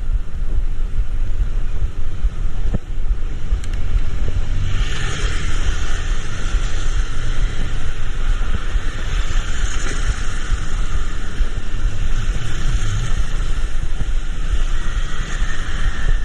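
Wind rumbling on the microphone while moving through traffic. About four and a half seconds in, a louder steady hiss joins it, like wet road noise.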